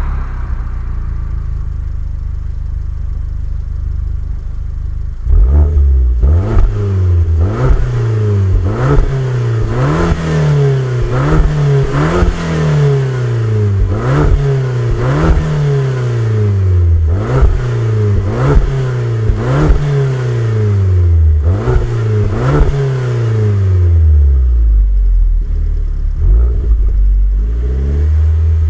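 Alfa Romeo MiTo Quadrifoglio Verde's stock 1.4 turbocharged four-cylinder engine idling, then revved in about a dozen quick throttle blips, each rising sharply and falling away slowly, before settling back to idle.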